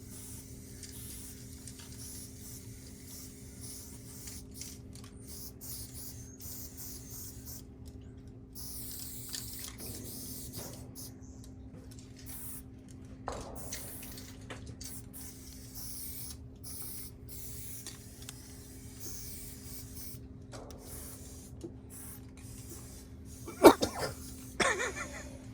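Aerosol spray-paint can hissing in repeated short bursts with brief gaps between, over a steady low hum. A few short, louder sounds come near the end.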